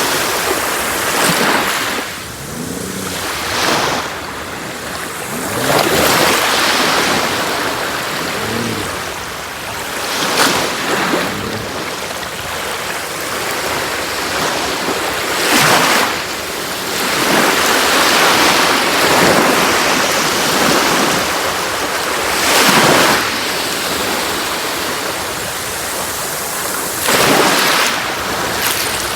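Sea waves washing onto a shore: a continuous rush of surf that swells as a wave breaks every few seconds, about seven times.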